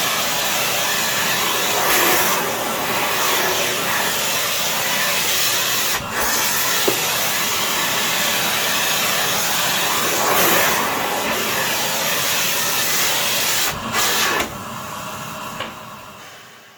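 Philips PowerPro FC9331/09 900 W bagless cyclonic vacuum cleaner running with a steady rushing noise, briefly changing note a few times. It drops sharply in level about three-quarters of the way through and then fades away.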